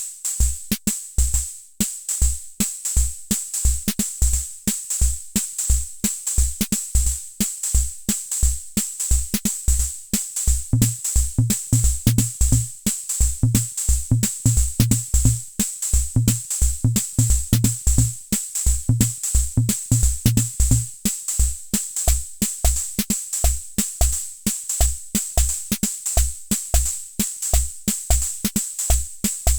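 Hammond Auto-Vari 64 analog rhythm machine playing a preset beat: low kick-drum thumps under a steady high ticking. A lower pitched drum pattern joins about a third of the way in and drops out about two-thirds of the way through, a variation of the beat.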